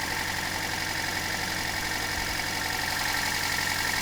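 Toyota Corolla four-cylinder engine idling rough with a misfire, the plug wire pulled from cylinder 4 snapping with spark. Pulling that wire makes no difference to the running, so the cylinder is dead though it gets spark: the owner suspects a clogged fuel injector.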